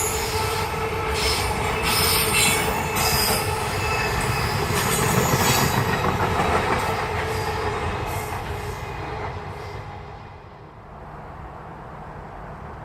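Train running past with its wheels squealing on the rails over a steady rumble. The squeal and rumble fade away about ten seconds in, leaving a quieter steady background.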